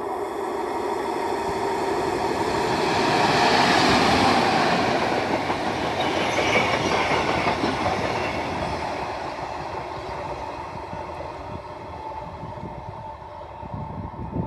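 A train passing by: it grows louder to a peak about four seconds in, then fades away as it moves off.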